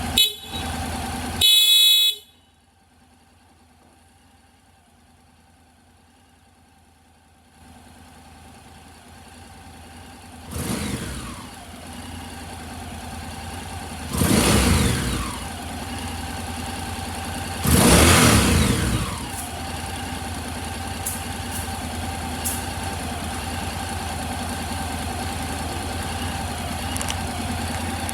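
Honda NC750X DCT's parallel-twin engine idling; a short horn beep sounds about two seconds in. The sound then drops much quieter for about five seconds before the engine is heard again, blipped three times, and settles into a steady idle.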